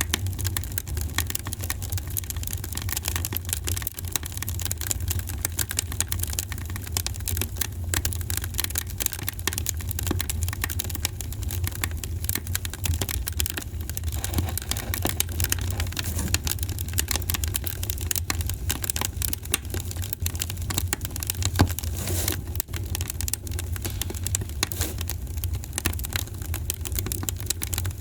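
Wood fire in a fireplace crackling: dense, irregular small pops over a steady low rumble, with one louder pop about three-quarters of the way through.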